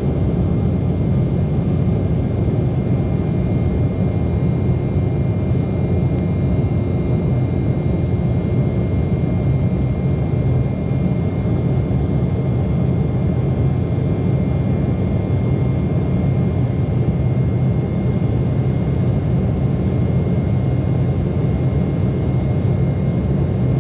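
Cabin noise inside an Embraer 190 jet airliner: the steady low rumble of its turbofan engines and airflow, with a few faint steady high tones above it.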